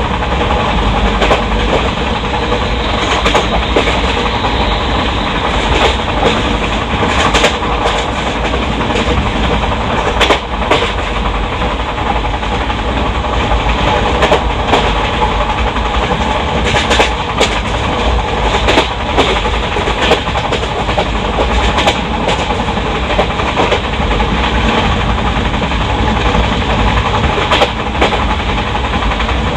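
Track noise inside an Indian Railways ICF passenger coach at speed: a steady rumble of wheels on rail with scattered sharp clicks and knocks from the rail joints.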